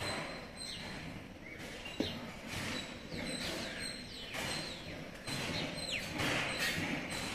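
Small birds chirping in short, quick notes that fall in pitch, scattered throughout, over background noise, with a single soft thump about two seconds in.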